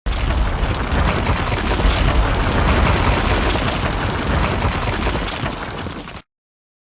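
Intro sound effect: a dense, heavy rumbling crash with scattered crackles, lasting about six seconds and cutting off abruptly.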